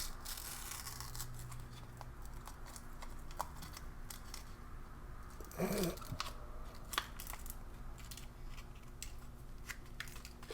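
A small MRE accessory packet being handled and torn open, with soft crinkling and scattered light clicks.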